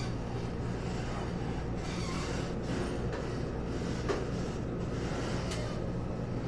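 Steady low rumble of an EMU800-series electric commuter train heard from inside the carriage while it runs along the track, with a couple of faint clicks past the middle.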